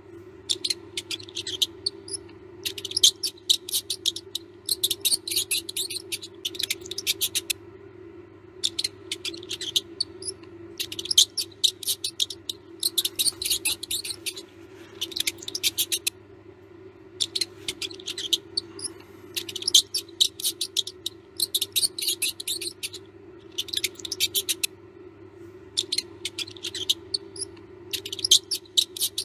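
Mouse squeaking and scratching in quick, high-pitched runs of a second or two at a time, with short pauses between, over a steady low hum.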